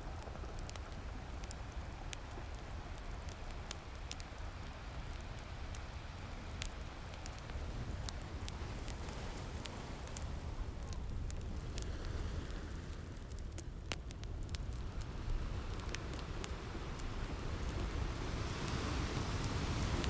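Fireplace crackling with scattered sharp pops over a steady wash of ocean surf with a low rumble; the surf swells louder near the end.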